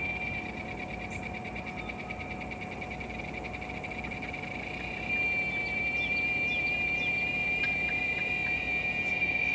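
A giant cicada (Quesada gigas) singing a steady, high-pitched drone. It pulses rapidly at first, then becomes steadier and louder about five seconds in.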